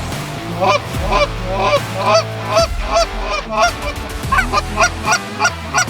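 Goose honking: a quick series of short, arched honks, about two to three a second, over a low steady background.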